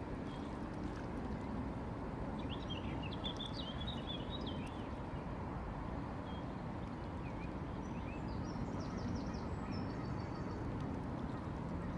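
Small birds chirping in short high bursts, about a third of the way in and again past the middle, over a steady low background rumble.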